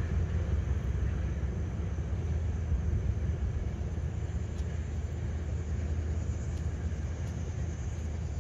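Steady low rumble of a distant passenger train running along the far side of a river.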